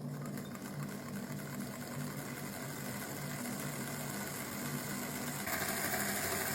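Small model Stirling engine running steadily, its flywheel and linkage giving a mechanical whir with a fast rhythmic pulse that gets a little louder near the end.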